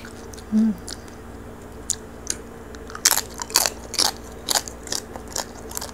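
Chewing on crispy roasted pig-head skin (lechon), close to the microphone: after a quiet start, a run of sharp crackly crunches in the second half.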